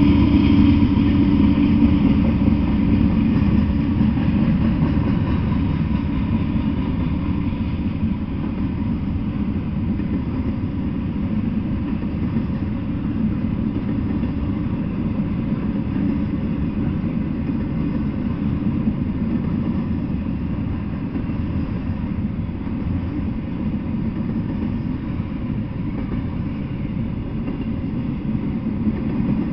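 Double-stack intermodal freight train rolling past: a steady low rumble of steel wheels on the rails, a little louder over the first few seconds and then even.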